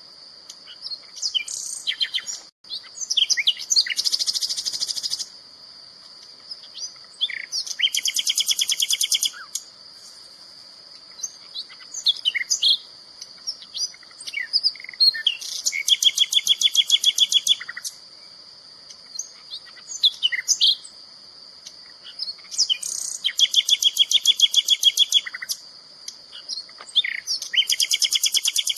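Songbird singing: rapid trills of about two seconds, repeated five times, with short sharp chirps in between, over a steady high-pitched tone.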